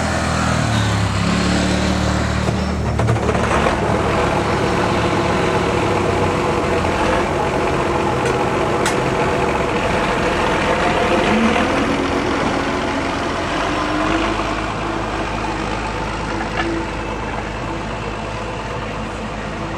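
Tractor engine running at moderate revs, its pitch rising and falling a few times, then easing off somewhat in the last few seconds.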